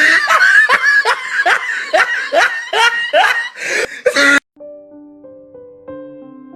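Loud rapid laughter, about two to three bursts a second, cut off suddenly about four and a half seconds in. Soft electric piano music follows.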